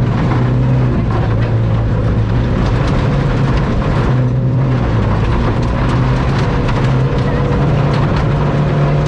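Ford Fiesta ST rally car's engine running hard at stage pace, heard from inside the cockpit, its pitch stepping up and down several times with gear changes and throttle, with scattered clicks and ticks from the road surface.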